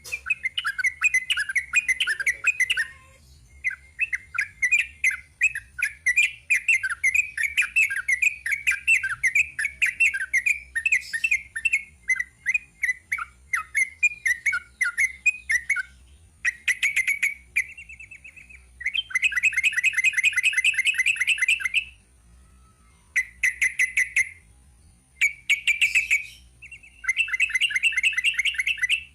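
Yellow-vented bulbul (trucukan) singing a long, rapid chattering song. It comes as bursts of fast repeated notes separated by short pauses, and the later bursts are the densest and fastest.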